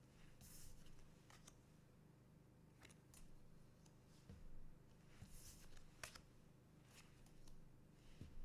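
Faint handling of trading cards and booster packs: scattered light clicks and a few brief swishes, over a low steady hum.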